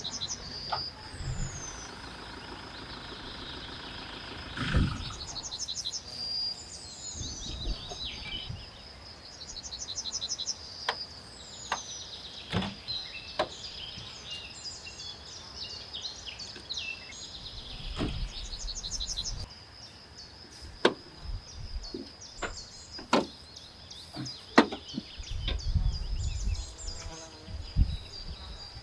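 Outdoor nature ambience: birds chirping with short falling whistles and quick chirp trains, over a steady high insect trill. Scattered sharp clicks and knocks through it, and low rumbles near the end.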